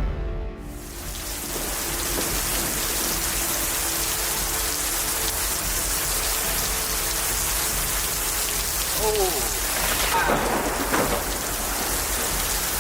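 Heavy rain pouring down in a steady hiss. A few brief pitched sounds rise and fall about nine seconds in, with short sharper ones just after.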